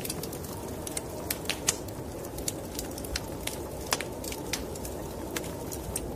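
Wood fire in a fireplace crackling, with irregular sharp pops and snaps over a steady low rushing noise. One pop stands out about two seconds in and another about four seconds in.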